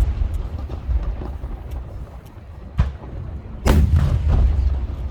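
Aerial fireworks shells bursting: a short sharp bang nearly three seconds in, then a heavier, louder boom just after that rolls on in a low rumble, with small crackling pops scattered throughout.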